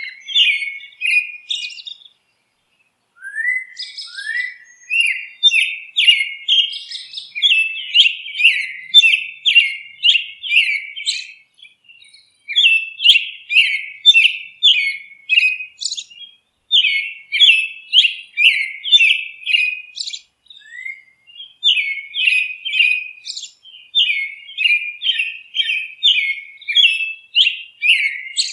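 Bird song: fast runs of short, high chirps, several a second, in phrases broken by brief pauses, the longest about two seconds in.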